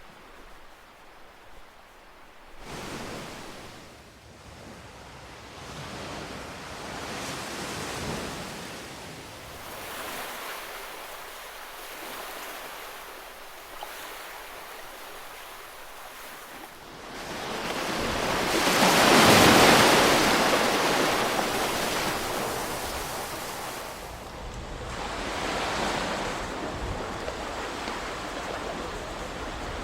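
Ocean waves breaking and washing in, in slow surges that rise and fall every few seconds; the loudest wave breaks about two-thirds of the way through.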